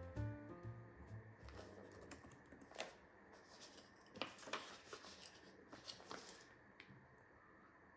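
Faint, irregular light taps and clicks, a few over several seconds, as the last of the background music fades out in the first second or so.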